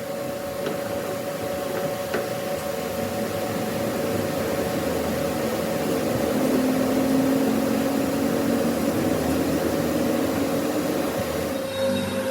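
A machine running steadily: a motor's whine over an even hiss, with a lower hum joining in for a few seconds in the middle.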